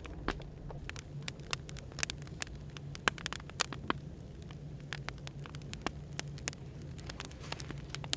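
Firewood crackling, with irregular sharp pops and snaps over a steady low hum of café white noise.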